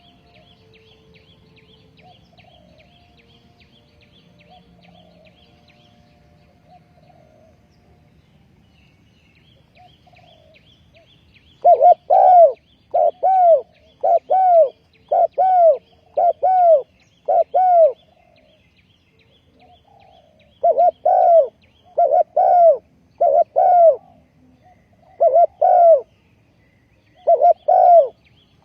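Spotted dove cooing: loud, repeated arched coo notes in phrases, starting about twelve seconds in and coming in groups with short pauses. Faint high chirping of small birds runs underneath.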